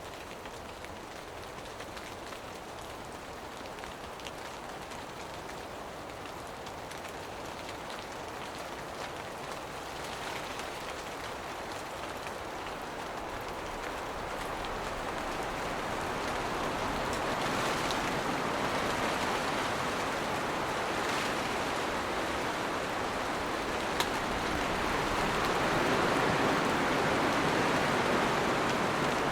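A rain shower falling steadily as an even hiss of drops, growing gradually louder and heavier. There is a single sharp drip-like click near the end.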